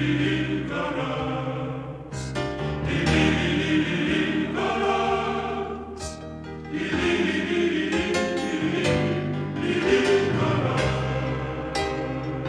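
Background music: a choir singing sustained chords over instrumental accompaniment, in a gospel-like style.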